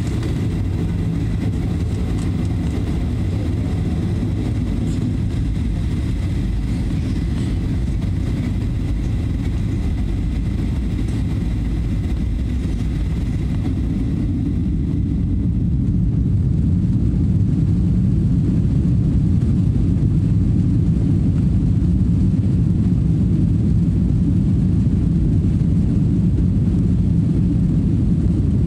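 Boeing 737-900ER's CFM56-7B jet engines heard from inside the cabin during departure: a steady, loud rumble with faint whining tones. About halfway the whine fades and the rumble grows louder and deeper.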